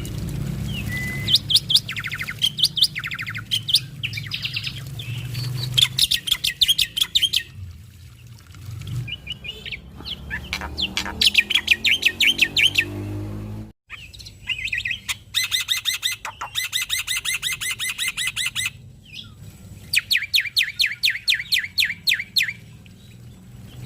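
Male black-winged myna (jalak putih) singing vigorously: repeated bursts of rapid, high chirping trills, several seconds each, separated by short pauses. A low hum runs underneath, and the sound drops out for an instant just past the middle.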